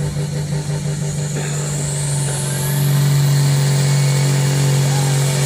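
A pulling vehicle's engine running steadily at high power, growing louder about three seconds in.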